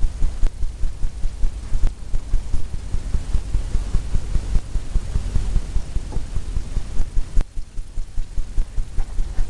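Two-inch brush tapped over and over against a stretched canvas: dull thumps, about three or four a second, dabbing on the white splash of a wave.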